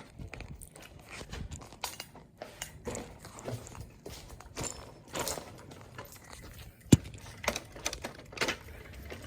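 Irregular clicks, rustles and knocks of a phone or camera being handled while walking, with one sharp knock about seven seconds in.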